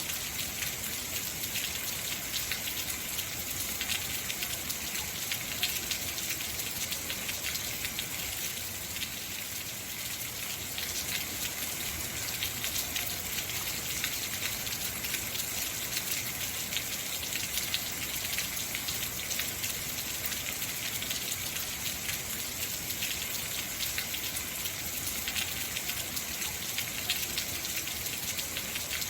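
Heavy rain falling steadily: a dense, even hiss of drops, with individual drops ticking through it.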